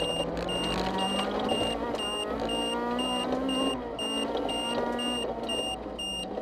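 Rally car engine heard from inside the cabin under acceleration; its pitch climbs for about three and a half seconds, then drops at a gear change. A short, high electronic beep repeats a couple of times a second throughout.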